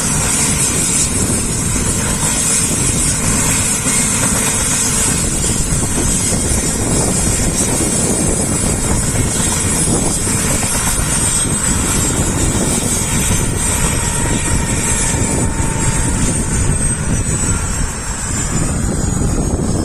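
Helicopter running, with steady rotor and engine noise and a high turbine whine that begins to fall slowly in pitch about halfway through. Wind buffets the microphone.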